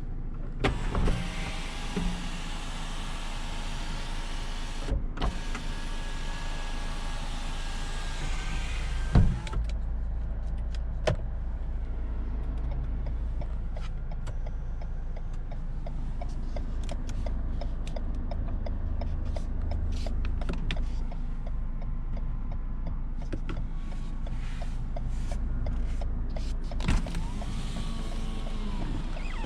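Electric power window motor of a 2017 Lexus RX 200t whining as a window runs, with a thump about 9 seconds in as it stops, over the low rumble of the car in motion. A second short motor whine starts near the end.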